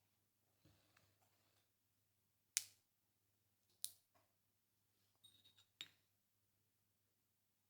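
A few sharp clicks and light knocks of kitchen utensils and tableware being handled, the loudest about two and a half seconds in, with soft rustling before them and a brief ringing tap near the end.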